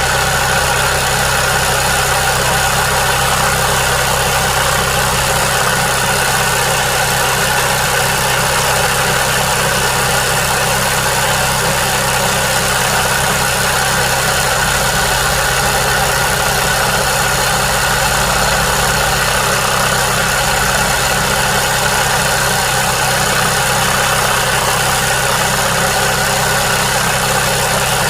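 Sewing machine running steadily at speed for free-motion embroidery, a continuous even mechanical hum.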